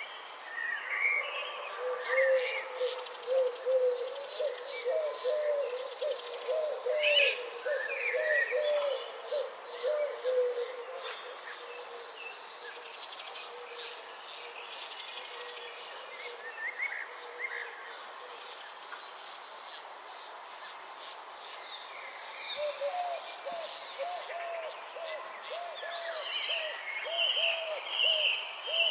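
Nature ambience: a steady high-pitched insect trill that stops about two-thirds of the way through. Over it, an animal gives quick series of short low calls, early on and again near the end, with scattered bird chirps.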